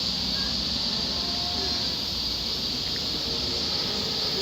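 Cicadas shrilling in a steady, continuous high-pitched chorus, over a low rumble.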